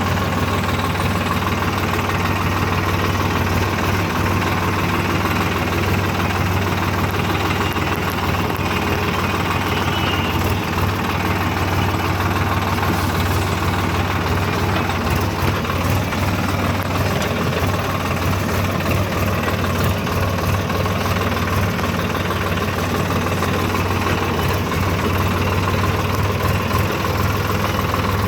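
Tractor diesel engine running steadily with a deep, even throb.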